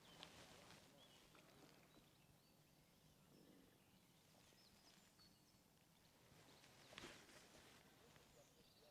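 Near silence: faint outdoor ambience with faint distant birds chirping and a single soft knock about seven seconds in.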